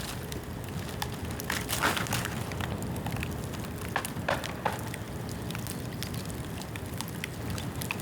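Bamboo bonfire burning: a steady low rush of flame with sharp crackles and pops, clustering in louder pops about two seconds in and again around four seconds in.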